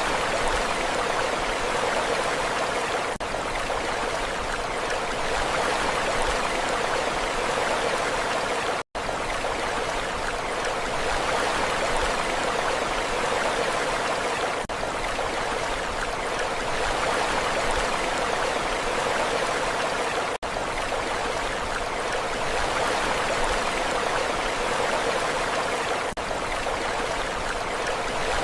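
Steady rushing water with no rise and fall of waves, broken by a brief drop-out about nine seconds in.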